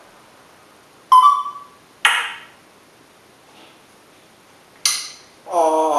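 African grey parrot giving three short, sharp squawks, then starting a longer pitched call near the end.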